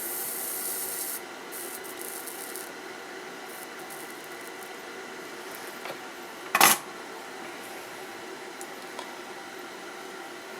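Soldering-iron work to clear a pin hole on a circuit board: a brief hiss at the start, light scraping, and one sharp, loud snap about six and a half seconds in, over a faint steady hum.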